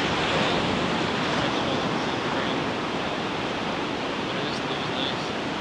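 Ocean surf breaking on a beach: a steady rushing wash of waves that eases off gradually.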